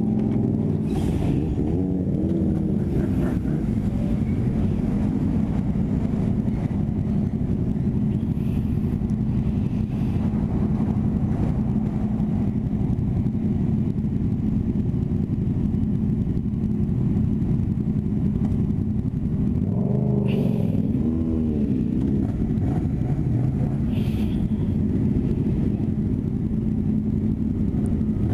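Yamaha MT-07 parallel-twin engine idling steadily, with the revs rising and falling briefly about two seconds in and again around twenty seconds in.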